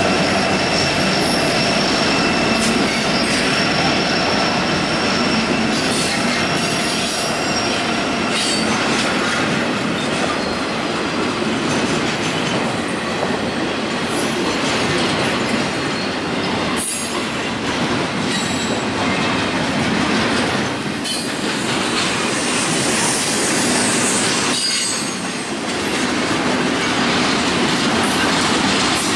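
Freight train cars rolling past close by, steel wheels on the rails making a steady loud rush. A thin high-pitched wheel squeal rings over the first several seconds and then fades, and a few sharp clicks from the wheels crossing rail joints come through now and then.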